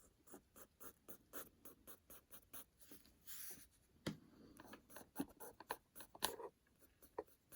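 Fine-tip Micron pen drawing on paper: many short, faint scratchy strokes, with one longer stroke about three seconds in and a couple of sharper ticks later.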